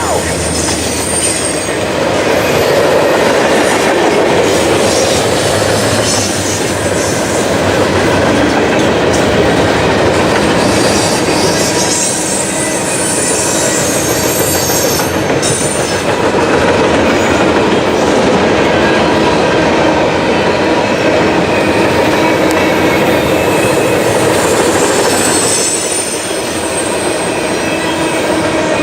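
Freight train cars rolling past at close range, wheels clacking over the rail joints, with high-pitched wheel squeal coming and going.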